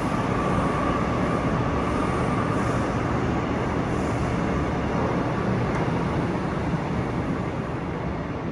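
Seoul Subway Line 9 electric train running on the track, a steady rumble with a faint whine in the first couple of seconds, easing slightly in loudness near the end.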